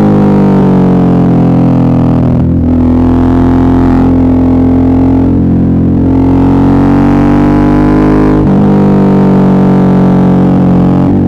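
Suzuki V-Strom 650's 645 cc V-twin engine pulling on the road. Its note steps up about two and a half seconds in and climbs slowly, then drops at a gear change about eight and a half seconds in and climbs again.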